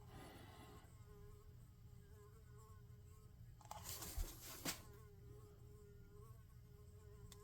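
Near silence: a faint steady hum, with a brief rustle of handling, a low knock and a click about four seconds in.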